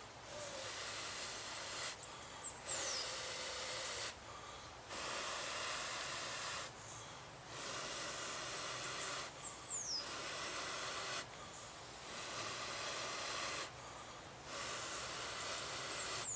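A person blowing long, steady breaths onto smouldering tinder from a bamboo friction fire to coax the ember into flame. There are about six blows with short pauses for breath between them.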